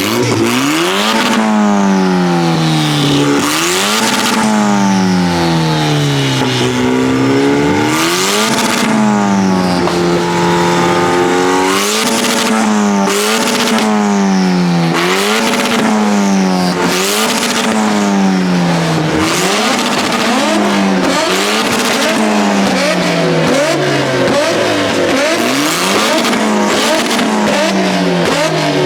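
Cars driving past one after another with engines revving, each engine note falling in pitch as the car goes by, in a steady stream.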